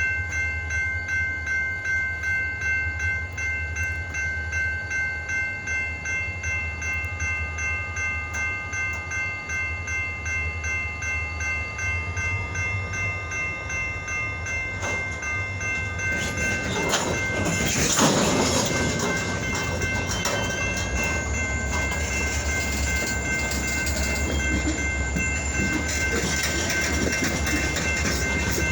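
Diesel locomotives (EMD GP-series units) running with a low pulsing rumble, with a train moving on the rails. About two-thirds of the way in comes a short, loud rushing burst, the loudest moment, and the noise of the train grows a little after it.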